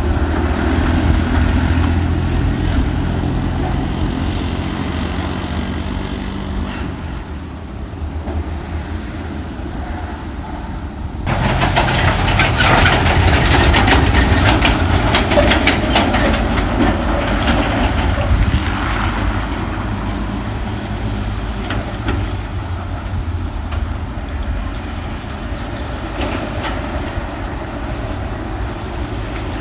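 Heavy truck diesel engine running with a steady low drone. About eleven seconds in, the sound changes abruptly to a louder stretch full of rapid clattering and rattling, then settles back to a steady engine drone.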